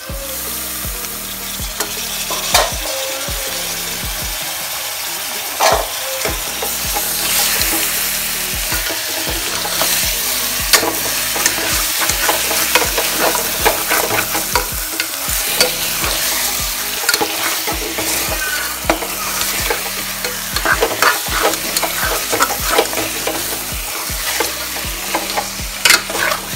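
Raw chicken pieces sizzling in hot oil in a pressure cooker, stirred with a steel ladle. The ladle scrapes and now and then knocks sharply against the metal pot, with the clicking growing busier in the second half.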